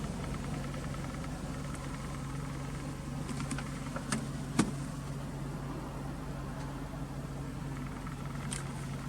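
Toyota Altezza SXE10 engine idling steadily through its aftermarket Fujitsubo exhaust, with two sharp clicks about halfway through.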